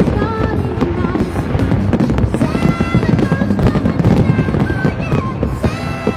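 Fireworks going off in rapid bangs and crackles, with music with a melody playing at the same time.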